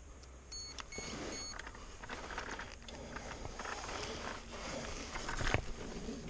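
Electric KTM Freeride dirt bike picking its way over rocks and roots: tyres, chain and suspension clatter and knock on stone, with no engine note. A few short high electronic beeps come about a second in, and a faint low steady hum joins about halfway.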